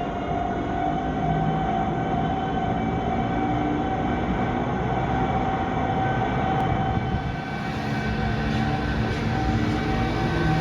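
Container freight train hauled by an EF210 electric locomotive running past, a steady rumble of wheels and cars on the rails with a steady whine held throughout.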